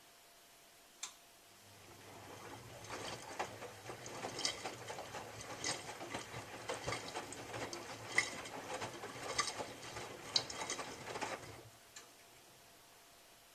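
Miele W3744 washing machine's drum turning for about ten seconds during its cycle: a steady motor hum with the load clattering as it tumbles, which stops suddenly. A click comes just before the turn begins and another just after it ends.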